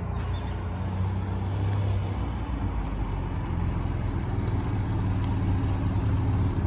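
Classic car engine running at steady revs, a low, even note without any sharp rise or fall in pitch.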